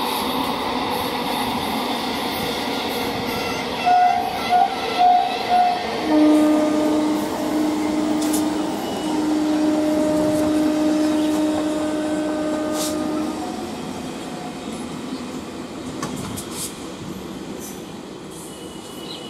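Steady running noise of a MEDHA electric multiple unit train accelerating past. A train horn gives four short high toots about four seconds in, then a long lower blast with two brief breaks from about six to thirteen seconds. After that the train noise fades as it pulls away.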